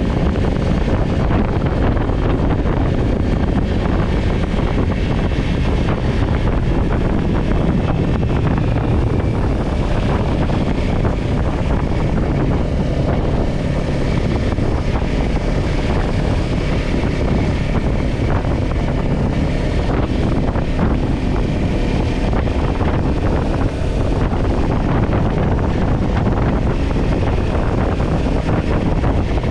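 Steady wind rush buffeting the microphone on a moving Kawasaki Ninja 400 sport bike, with its parallel-twin engine running at a steady cruise underneath.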